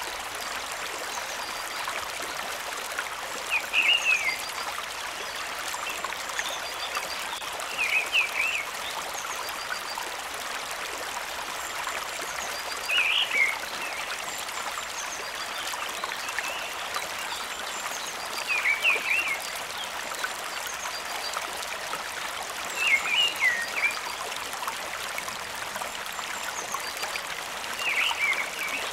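Steady rushing of a stream and waterfall. Over it, a short animal call of a few quick notes comes six times, about every five seconds.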